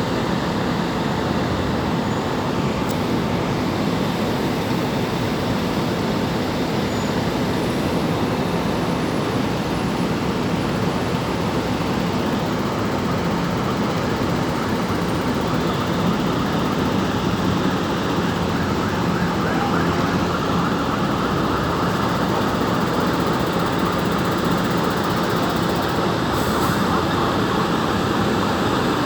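Steady city street noise: road traffic running past in a continuous wash of sound, without a break.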